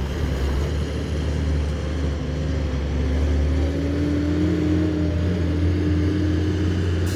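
Heavy diesel engine of earth-moving machinery running steadily with a deep low hum, its pitch rising slightly about three seconds in and then holding.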